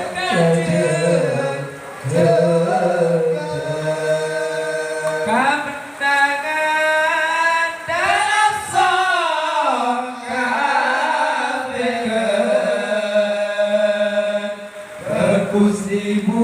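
A man chanting a Madurese sholawat, a devotional song in praise of the Prophet, in long held notes with sliding ornamented turns.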